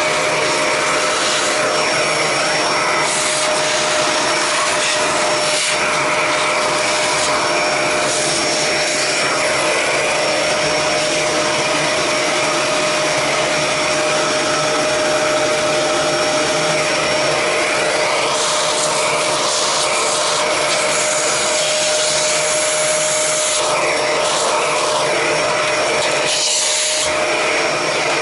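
Vacuum cleaner running steadily, with a constant whine under the rush of air, sucking the bulk of the dust out of an upturned Roomba robot vacuum. The airflow sound shifts a few times as it works.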